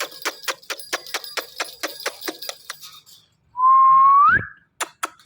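Ringneck parrot making a fast run of clicks, about six a second, then a loud whistle that holds steady and then glides up in pitch, followed by more clicking near the end.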